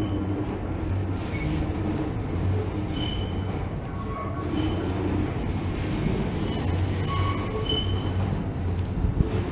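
Keisei Kanamachi Line train running on the track, a steady rumble of wheels on rail with brief high wheel squeals, the longest about two-thirds of the way through.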